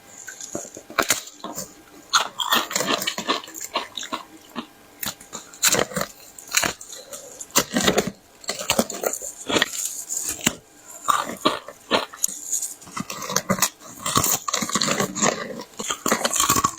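A person biting and chewing hard ice, with loud irregular crunches and crackles coming every fraction of a second.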